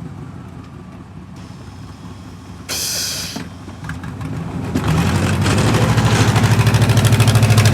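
Vehicle engine running low, with a short hiss about three seconds in, then revving hard and holding high revs from about five seconds in as a stuck vehicle tries to drive out of the snow.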